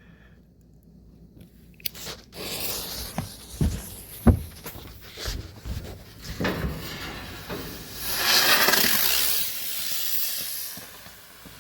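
Daytime smoke chopper (helicopter firework) burning: after a click about two seconds in, it hisses with scattered sharp cracks, the loudest about four seconds in, then swells to a louder, rippling hiss for a few seconds near the end before dying away.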